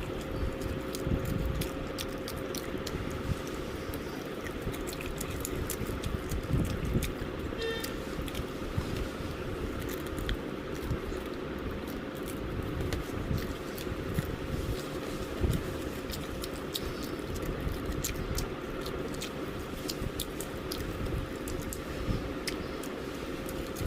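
Someone eating KFC fried chicken: many small, crisp crackles of the crunchy coating being bitten and chewed, over a steady faint hum.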